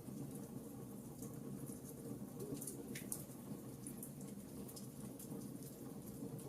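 Wood fire burning in a fireplace: a steady low noise from the flames with scattered small crackles, and one sharper pop about three seconds in.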